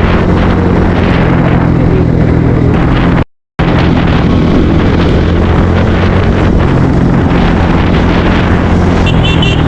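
Bajaj Pulsar NS160's single-cylinder engine running at a steady speed on the move, under heavy wind noise on the microphone. The sound drops out for a moment a little over three seconds in.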